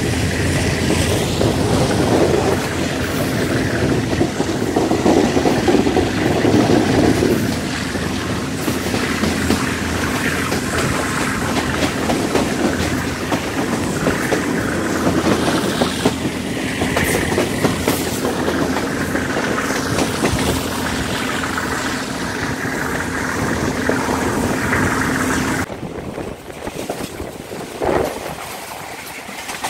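Passenger train running along the line, heard from inside the carriage: a steady rumble of wheels on rails with a constant hum and rapid clacking. About 26 seconds in, the sound changes abruptly to a quieter, thinner running noise.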